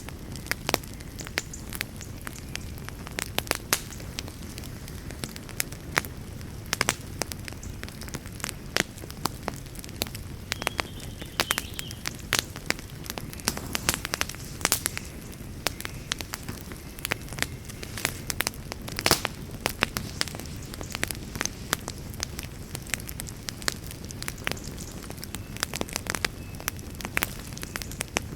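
Wood fire in a fireplace crackling, with frequent sharp irregular pops over a steady low rush of flames.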